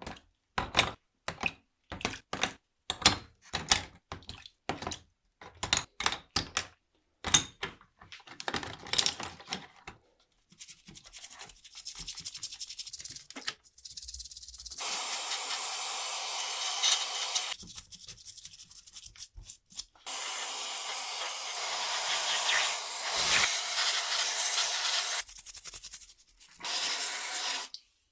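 Hand scrubbing or scraping in short repeated strokes, about two a second, followed by long stretches of steady abrasive rubbing that stop and start a few times.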